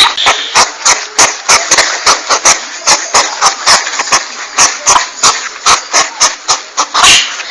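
Hedgehog calling: a rapid run of sharp clicks, about three a second, over a steady hiss.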